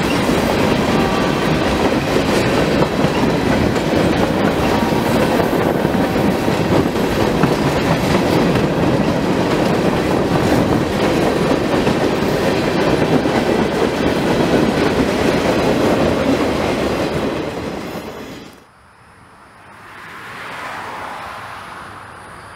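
Freight train cars, boxcars then tank cars, rolling past close by: a steady loud rumble and clatter of wheels on the rails. About three-quarters of the way through it fades and cuts off, leaving a much quieter background.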